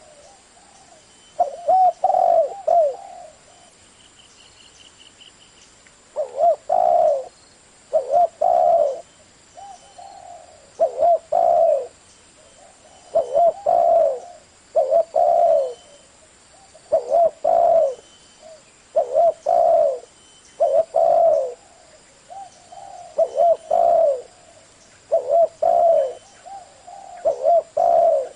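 Spotted dove cooing: loud, low, rolling coo phrases repeated about every one to two seconds, after a pause of about three seconds early on. A faint short chirp is heard in that pause.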